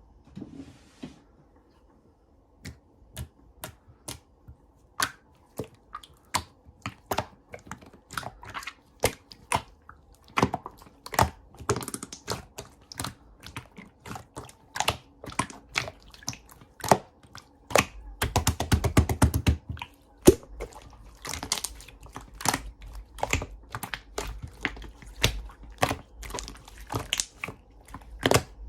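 Chocolate slime being squeezed and pressed by hand, giving off irregular sharp clicks and pops, with a dense run of rapid crackling about two-thirds of the way through.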